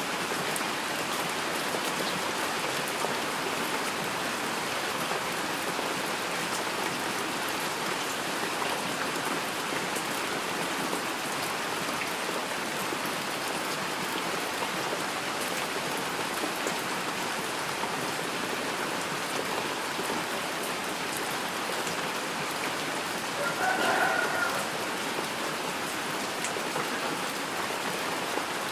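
Steady rain falling, an even hiss with fine ticks of individual drops. Near the end a brief pitched sound rises above the rain for about a second.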